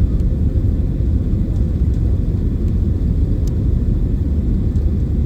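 Boeing 737 jet airliner making a steady low rumble, with no rise or fall in level.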